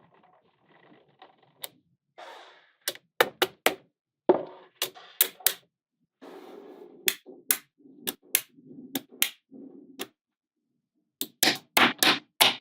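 Small neodymium magnetic balls snapping together with sharp clicks, scattered at first and then in a quick run of clicks near the end. Softer rattling of balls shifting and rolling against each other comes between the clicks.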